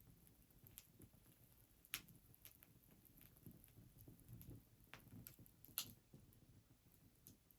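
Wood fire crackling quietly: scattered sharp pops and snaps, the two loudest about two seconds in and near six seconds, over a soft low rumble of burning.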